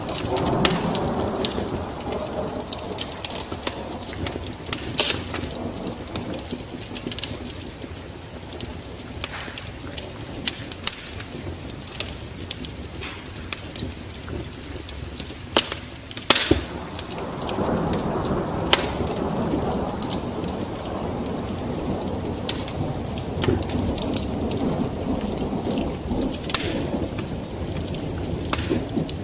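Wood fire burning in a fireplace, crackling with sharp pops scattered throughout over a low rushing of the flames that swells near the start and again from about halfway on.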